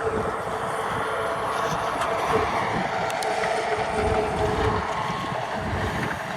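Walk-behind tractor's engine running steadily as it works the potato rows, a little louder in the middle and easing toward the end.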